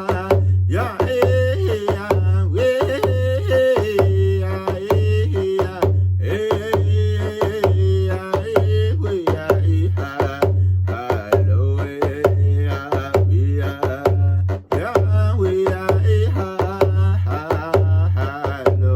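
A young man singing a wordless round dance song in vocables over a drum beaten at a steady pulse of about one and a half beats a second.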